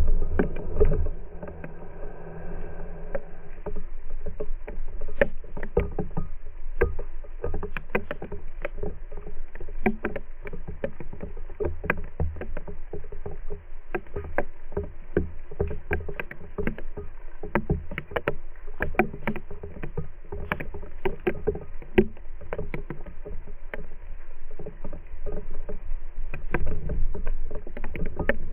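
Rain falling, with many irregular drops tapping close by over a steady low rumble.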